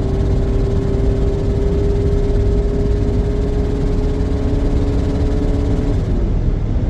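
Scion xB's 2.4-litre four-cylinder engine held at high revs under hard throttle, with a loud hissing noise from the engine bay that the owner puts down to an exhaust leak, and which comes with a loss of power. The engine note holds steady, then drops about six seconds in.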